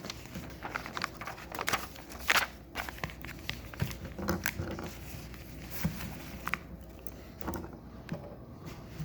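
Plastic Lego pieces and parts bags being handled: a string of irregular clicks, taps and crackles.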